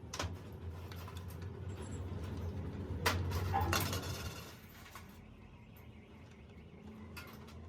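Light metallic clinks and knocks of tools and small metal parts being handled, with a denser clatter about three seconds in, over a steady low hum.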